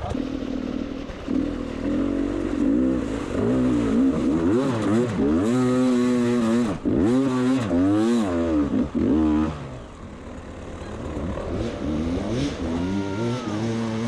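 Beta 300 RR two-stroke dirt bike engine revved hard over and over, its pitch rising and falling with each burst of throttle. It eases off about ten seconds in, then builds again.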